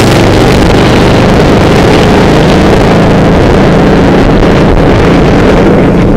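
Motorcycle engine running under way, loud and steady, with heavy wind rush on the microphone.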